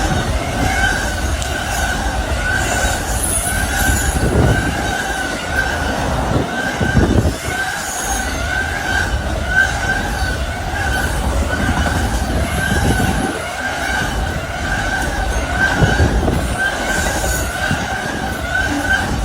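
Amtrak Auto Train rolling by with a low rumble, over a steady high-pitched ringing tone that pulses regularly throughout.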